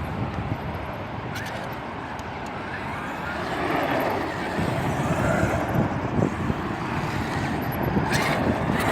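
Traxxas X-Maxx RC truck's electric drivetrain running with a rising and falling motor whine and a few sharp clicks, the clicking that the owner takes for a worn-out rear wheel bearing.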